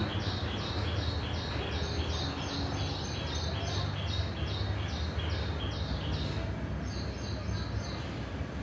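A bird calling a fast, even run of high chirps that alternate between two pitches, about five notes a second, breaking off near the end. A steady low hum runs underneath.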